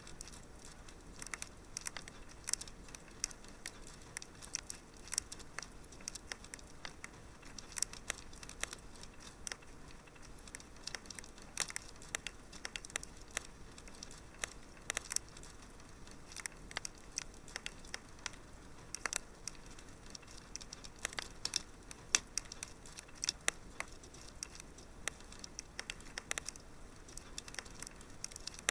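Wood fire crackling in a fireplace: irregular sharp snaps and pops, several a second, over a faint steady hiss.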